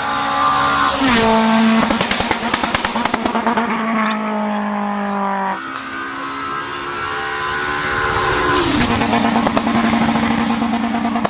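Rally car engines running at high revs as they pass at speed. The engine pitch drops sharply twice, about a second in and again near nine seconds, with a run of rapid crackles from about one to four seconds in.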